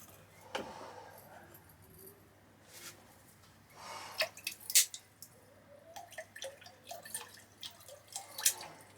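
Water dripping and splashing from a freshly zinc-plated part being handled wet out of the plating bath, among scattered small clicks and knocks, busiest in the second half.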